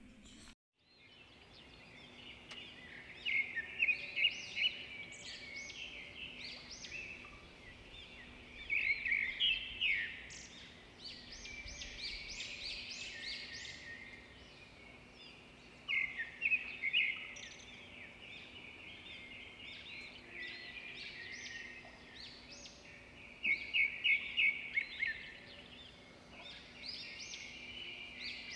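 Several birds chirping and calling, with bursts of quick repeated notes every few seconds, over a faint steady hum.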